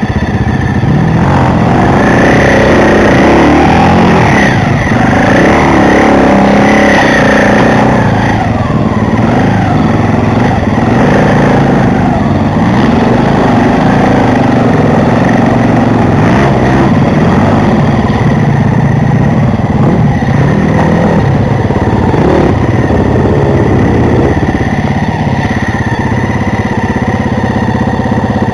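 Off-road dirt bike engines revving up and down while riding a muddy trail. The engine pitch rises and falls repeatedly, most strongly in the first several seconds.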